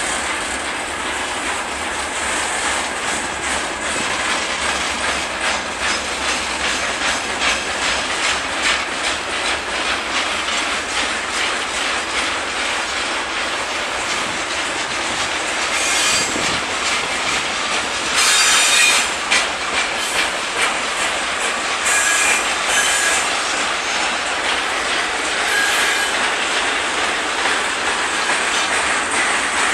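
Freight wagons of a Russian Railways goods train (covered hoppers and open wagons) rolling steadily past, their steel wheels clicking rapidly over the rail joints. Several short, high-pitched wheel squeals ring out in the second half.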